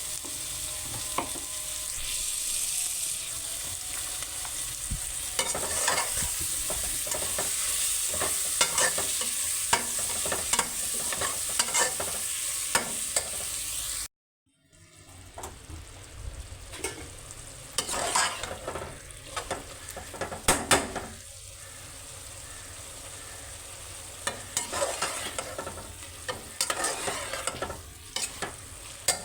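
Food sizzling as it fries in a pan while being stirred, with frequent clicks and scrapes of the spoon against the pan. About halfway through the sound cuts out for a moment, then the sizzling resumes more quietly with scattered stirring knocks.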